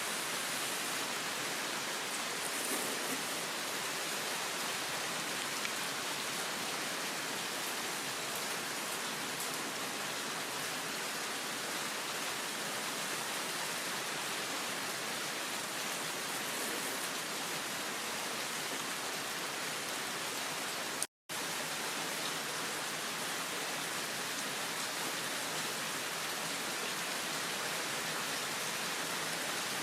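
Heavy rain pouring down steadily in an even hiss. About two-thirds of the way through the sound cuts out to silence for an instant, then resumes.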